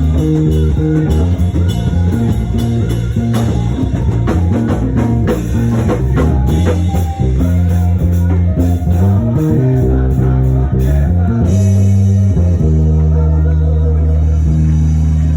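Live church band music: electric guitar and bass guitar over a drum kit, playing a praise groove.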